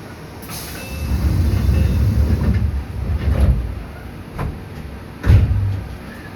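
Entetsu Railway electric train pulling away, heard inside the carriage: a low rumble of motors and wheels builds about a second in, then eases off. Sharp clacks of the wheels over rail joints follow, the loudest about five seconds in.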